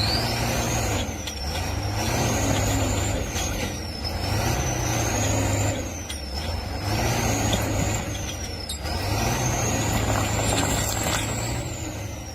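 A vehicle engine accelerating with a high whine. The pitch climbs and drops back about five times, as if shifting up through gears, then falls away near the end as it slows.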